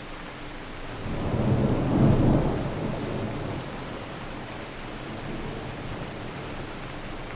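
Thunder rumbling over steady rain: a low rumble swells about a second in, peaks around two seconds and fades away over the next few seconds, leaving the rain.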